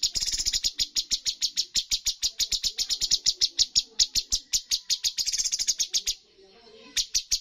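Cucak cungkok songbird giving a rapid 'tembakan' (shooting) burst of sharp, repeated high notes, about eight a second, with a short pause near the end before the burst resumes.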